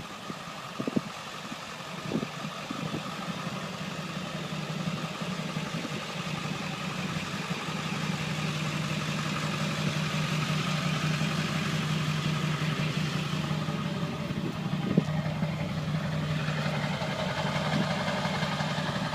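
An engine idling steadily, a low hum that grows gradually louder, with a few faint clicks.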